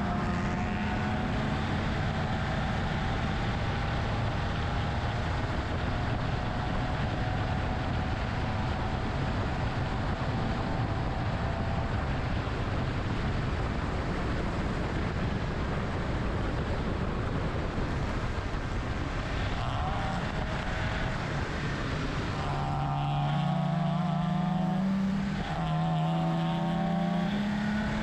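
BMW E30 engine running hard while lapping a race track, over steady road and wind noise. Near the end the engine pitch climbs and drops several times in steps.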